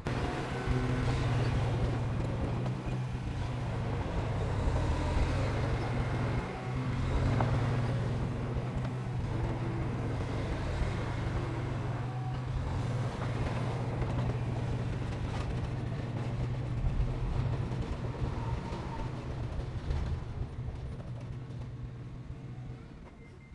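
Heavy diesel construction machinery running steadily, a deep engine drone with scattered knocks and rattles over it, fading out near the end.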